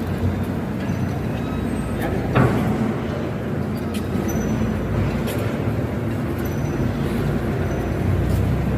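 Engine of a Voge 300 Rally, a 300cc fuel-injected motorcycle, running steadily with a low, even hum. A brief louder sound about two and a half seconds in.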